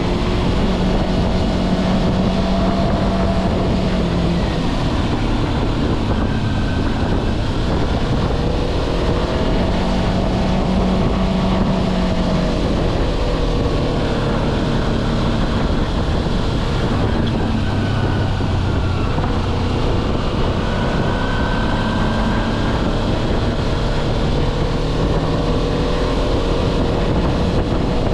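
Kawasaki Versys-X 250's parallel-twin engine running while riding, its pitch rising and falling with the throttle, with wind rushing over the microphone.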